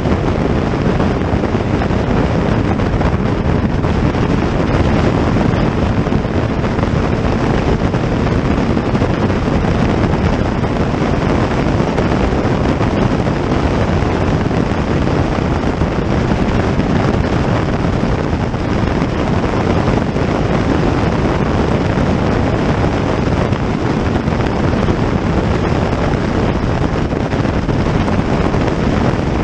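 Loud, steady rush of wind on the microphone mixed with vehicle running noise, with no let-up and no distinct pass-bys.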